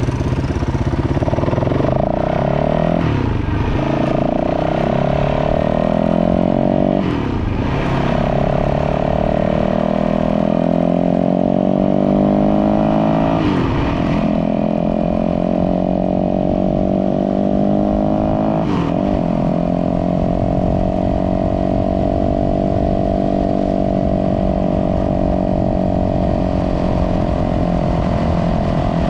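Dirt bike engine under way, climbing in pitch and dipping briefly at four gear changes about 3, 7, 13 and 19 seconds in, then running at a fairly steady speed.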